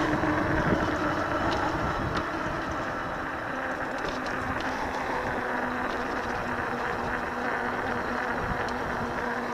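Steady rushing of wind and tyres while riding a 48 V electric bike, with a faint steady low hum underneath.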